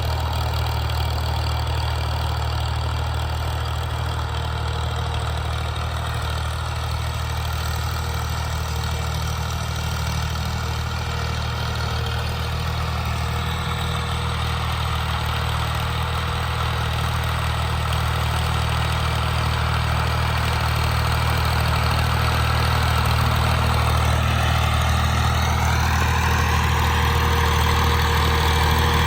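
Tractor engine running steadily, its pitch rising and getting a little louder near the end as it picks up revs.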